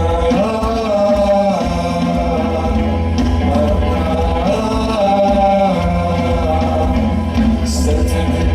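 A live rock band playing, with a man singing over electric bass, guitar and drums.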